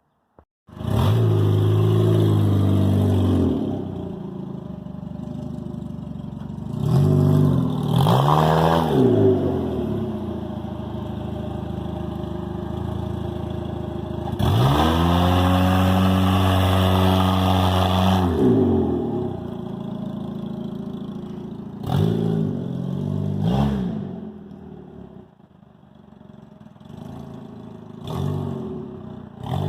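Loud race car engine warming up. The revs climb and fall several times, with steadier running in between.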